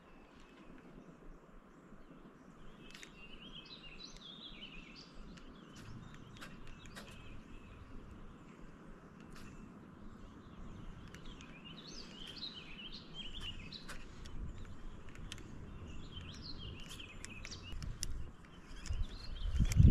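Songbirds chirping and singing in short bursts over a faint steady outdoor hiss, with scattered sharp clicks. Low rumbling and knocks build up near the end, the loudest a burst right at the close.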